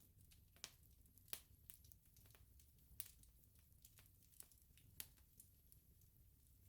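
Quiet wood bonfire crackling: scattered sharp pops, a few louder than the rest, over a faint low rumble.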